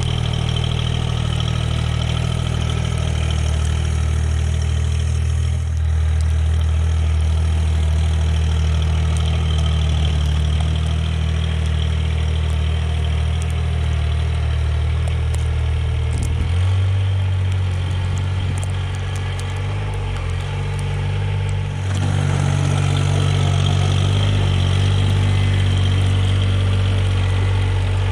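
Mahindra eMax 20S HST compact tractor's diesel engine running steadily. Its pitch shifts about halfway through, and its speed wavers for a few seconds after that.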